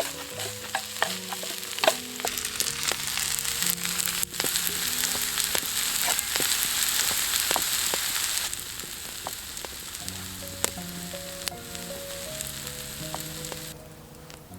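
Food sizzling and spitting in a frying pan over a campfire, with many sharp pops; the sizzle eases about two-thirds of the way through. Soft background music with a slow melody plays underneath.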